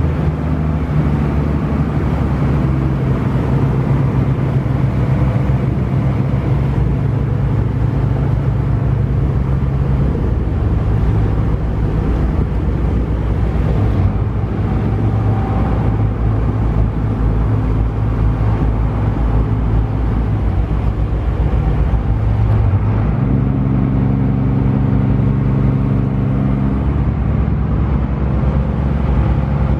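Small harbour ferry's engine running loud and steady, heard on board. Its pitch steps down about a third of the way through, rises again later and drops back shortly after, as the engine speed is changed.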